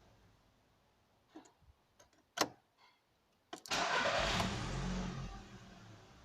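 Audi A3 1.6 petrol engine being started: a few clicks, then about three and a half seconds in it catches at once and runs up before settling back toward idle. The quick start is the sign of a good new crankshaft position sensor, where before it needed long cranking.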